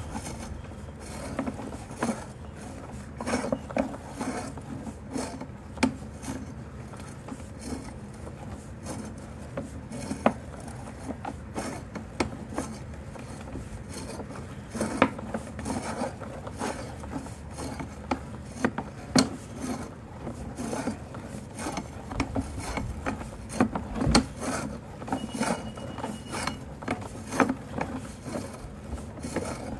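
Sewer inspection camera's push cable scraping and rattling as it is fed off its reel through a drain pipe, with irregular clicks and knocks.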